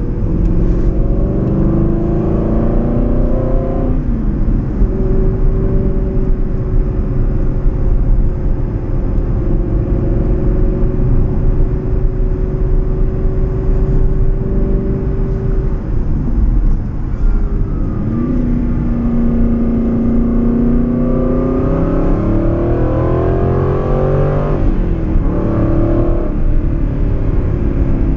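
Aston Martin Vantage GTS V8 engine heard from inside the cabin. It climbs in revs, drops at a gear change about four seconds in, then holds a steady note at cruise for about ten seconds. After a brief dip it picks up again from around eighteen seconds, climbs hard, drops with another shift near twenty-five seconds, then pulls again and settles.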